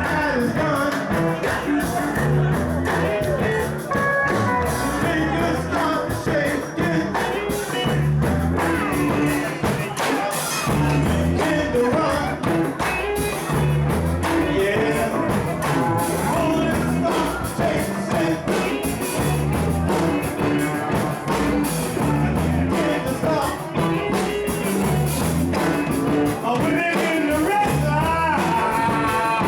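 Live rock-and-roll band jam with a steady beat, bass and guitar, and singing.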